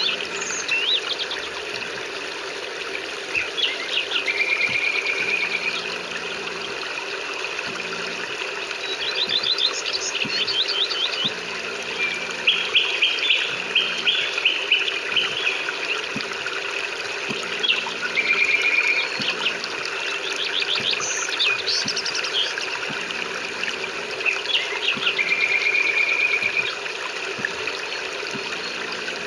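Songbirds chirping and trilling, with several short steady whistled trills and quick runs of chirps, over the steady hiss of rain.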